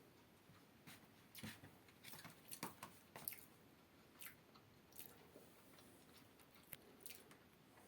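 A cat chewing and biting at its claws: faint, irregular crunches and clicks, most frequent in the first half.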